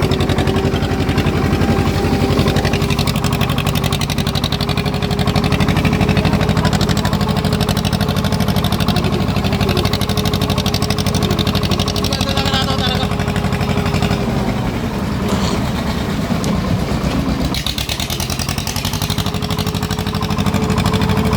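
Swaraj tractor's diesel engine running under load while driving, a steady low chugging with a whine held over it. The engine note eases about two-thirds of the way through and picks up again a few seconds later.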